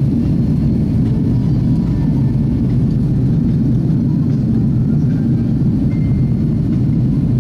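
Jet airliner cabin noise: a steady low drone of the engines and rushing air, heard from inside the passenger cabin.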